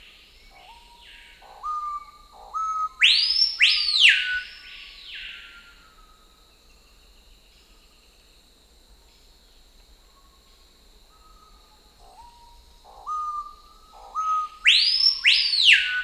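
Bird calls on the soundtrack: a run of short rising whistled notes that builds into loud, arching whistles. The same phrase comes twice, about eleven seconds apart, over a steady high tone.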